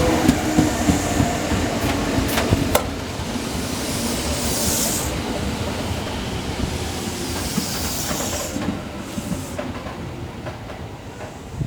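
Electric commuter train moving at a station platform, wheels clicking over rail joints as its motor whine fades, with two bursts of hissing air about four and eight seconds in.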